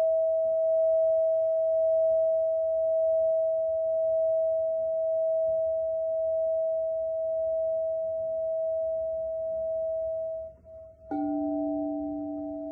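A single steady bell-like ringing tone, slowly fading. Near the end a new set of lower ringing tones is struck and sounds together.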